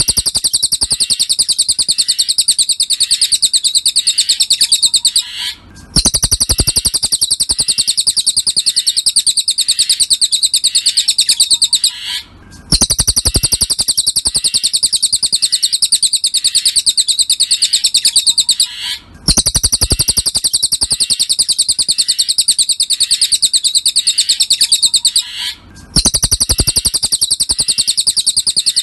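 Cililin songbird singing a fast, continuous chattering trill of high notes. It comes in phrases about six seconds long, each separated by a brief pause. It is a looped masteran recording of the kind played to tutor captive songbirds.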